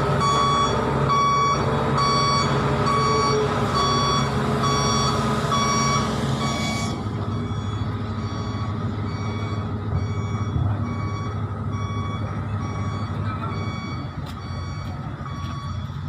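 A vehicle's reversing alarm beeping at an even pace over a running truck engine. About seven seconds in the sound turns duller and a little quieter, and the beeping grows fainter.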